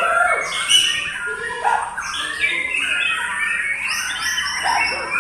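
Several white-rumped shamas (murai batu) singing at once, a dense tangle of overlapping whistled phrases, rising and falling glides and chattering notes.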